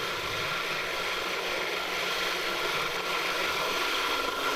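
Mil Mi-26 heavy-lift helicopter's turbine engines and rotor running steadily under load, a continuous mechanical din with a steady whine over it.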